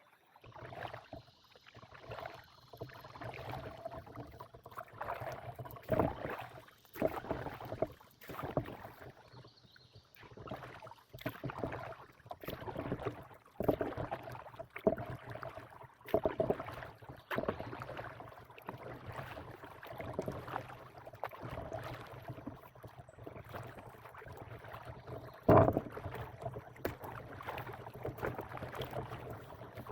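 Stand-up paddleboard paddle strokes: the blade dips and pulls through the water roughly once a second, with splashing and dripping. About 25 seconds in there is one sharper, louder sound.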